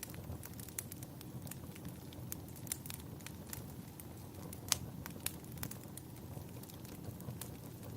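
Wood fire crackling in a fireplace: irregular sharp pops and snaps over a low, steady rumble of the flames, the loudest pop a little past halfway.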